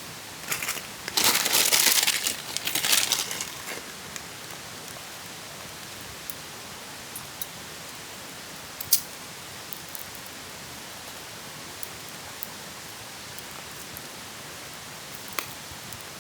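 Crinkling, rustling handling noise for about three seconds, then a steady hiss with a few isolated sharp clicks, the loudest about nine seconds in.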